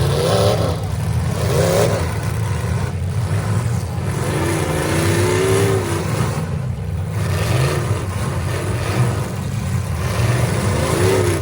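Several demolition derby cars' engines running together, with revs rising and falling several times over a steady low rumble.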